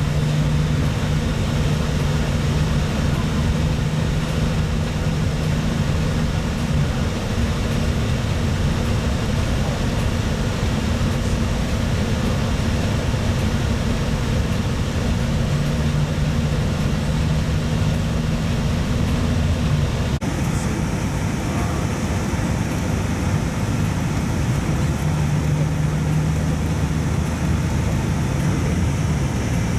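A vehicle engine running steadily: a low hum that swells and fades over a constant rumble. The sound changes abruptly about two-thirds of the way through.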